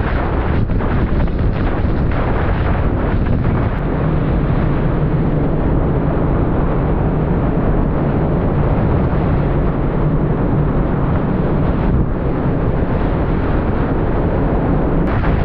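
Strong, steady test wind blowing in a full-scale high-wind demonstration, with wind buffeting the microphone.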